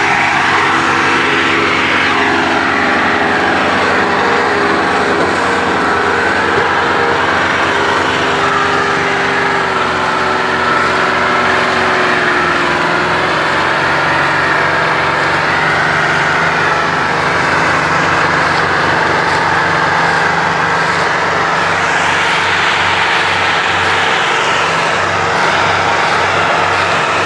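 Massey Ferguson 385 tractors' diesel engines running steadily under heavy load while pulling a loaded sugarcane trolley. The engine note sags briefly about halfway through, then recovers.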